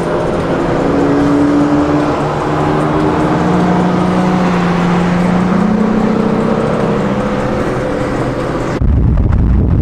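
Car engines running hard at speed: several engine notes slowly climb in pitch over steady road and tyre noise. Near the end the sound cuts suddenly to a deep, low rumble.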